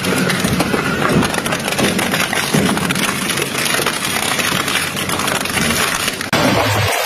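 A crusher machine runs while grinding up material, making a dense, rough crackling noise. About six seconds in, the sound cuts abruptly to a steadier machine hum.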